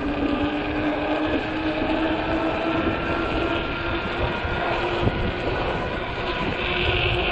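Hub motor of a 48-volt fat-tire e-bike whining, its pitch slowly rising as the bike gathers speed, over a steady rumble of tyres and wind.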